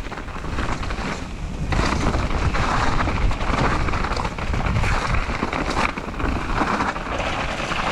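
Wind buffeting a GoPro's microphone during a mountain bike ride, with a rushing noise from the bike on the trail that gets louder about two seconds in.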